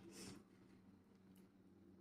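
Near silence over a steady low hum, with one faint, short chewing sound about a quarter second in.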